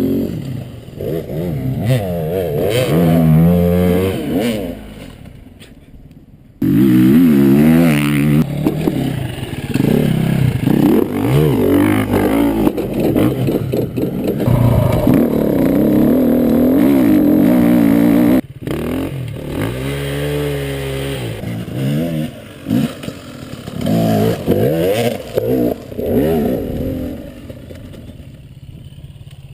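Dirt bike engines revving up and down repeatedly, with clattering and scraping. The sound changes abruptly twice, about a quarter and about two-thirds of the way through, and is quieter near the end.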